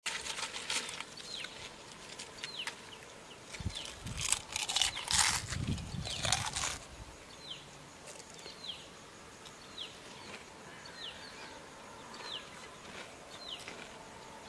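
A bird calling over and over, a short falling chirp about once a second, in open country. A few seconds of louder noise with some low rumble come partway through.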